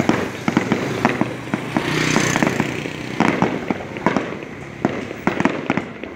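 Fireworks going off in rapid, irregular bangs and pops, with a burst of dense crackling hiss about two seconds in.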